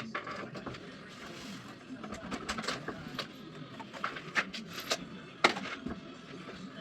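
Irregular clicks and knocks of building materials and tools being handled, with one sharper knock about five and a half seconds in.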